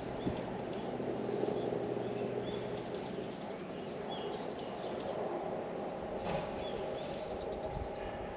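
Birds chirping in short calls every second or so over a steady outdoor background hum.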